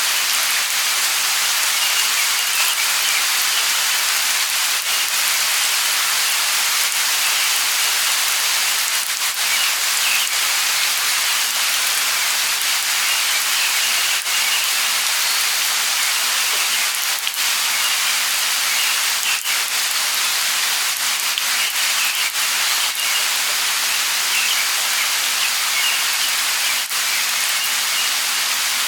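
Light rain falling steadily, with single drops striking here and there, and faint short bird chirps now and then.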